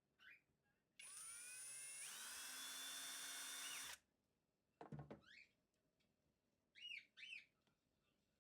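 A small electric motor runs for about three seconds, rising in pitch as it spins up, then holding steady before it cuts off suddenly. A few short squeaks follow, two of them close together near the end.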